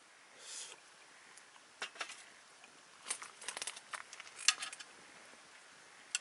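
Wood campfire crackling: scattered sharp snaps and pops, clustered in the middle, the loudest about four and a half seconds in.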